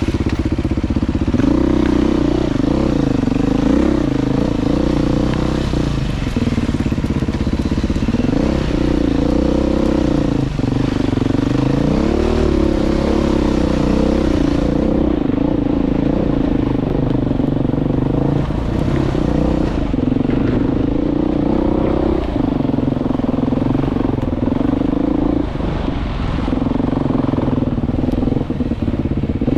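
Single-track trail bike's engine running under way, its pitch rising and falling with the throttle. A high hiss thins out about halfway through.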